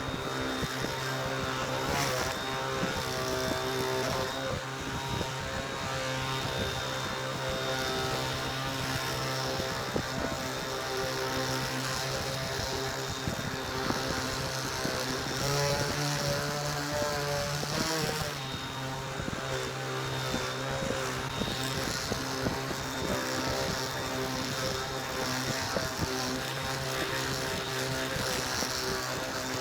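Electric power buffer running steadily while polishing a finished tabletop with the final high-gloss compound.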